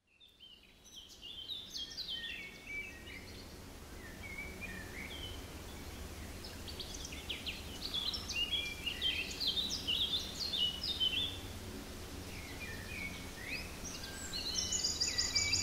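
Woodland birdsong: many small birds chirping and trilling, over a low steady hum.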